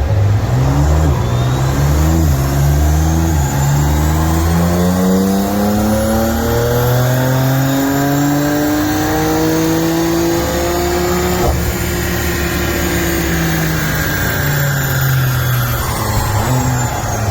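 BMW M4's twin-turbo inline-six, with a stainless full exhaust with single midpipe, on a dyno power run: the engine pitch rises steadily for about ten seconds under full load, then the throttle is lifted and the pitch falls away as it coasts down.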